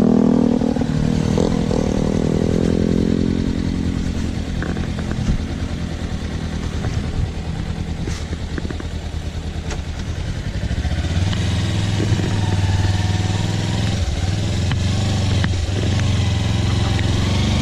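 Kawasaki Versys-X parallel-twin engine running under way. The revs fall over the first few seconds, stay low through the middle, then pick up again about eleven seconds in.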